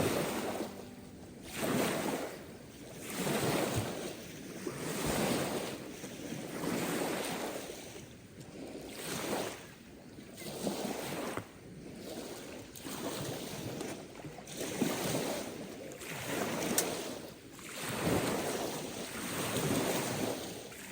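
Small lake waves lapping and breaking on the shore of Lake Motosu, coming in as a rhythmic rush that swells and fades about every one and a half seconds.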